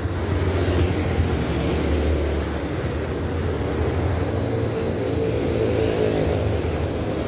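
Motor vehicle engine running close by on the road, a steady low hum whose pitch lines swell through the middle, over rushing road and air noise.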